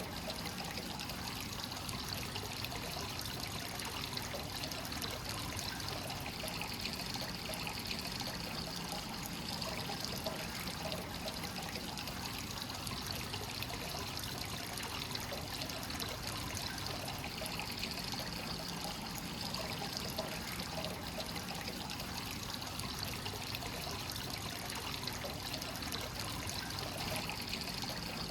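Hot spring water flowing without pause from the source into a bath, a steady trickling and splashing pour.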